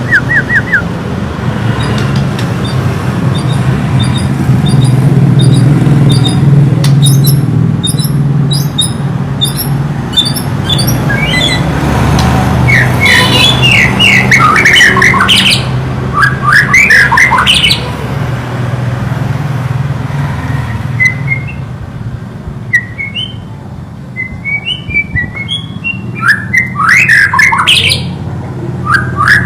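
White-rumped shama (murai batu) singing in rapid, varied phrases of chirps and whistles, in two long bouts with a short pause between them, over a steady low hum.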